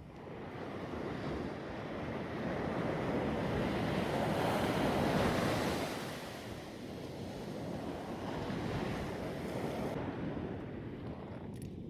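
Ocean surf breaking and washing up the beach, swelling to its loudest about halfway through and then easing, with a smaller swell later. Wind buffets the microphone.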